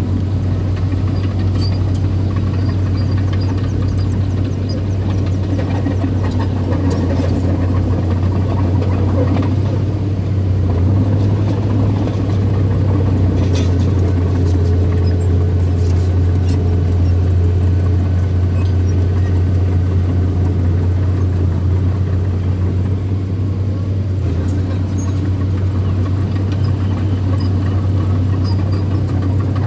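Engine of earthmoving machinery running steadily with a constant low hum, with a few light clicks and clanks in the middle.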